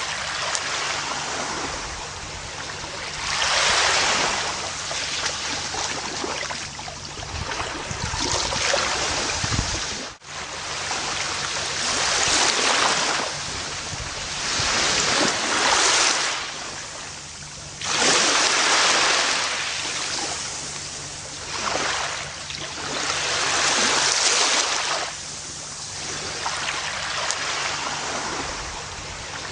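Gentle ocean waves breaking and washing onto a beach, the surf swelling and fading every few seconds. There is a brief dropout about ten seconds in.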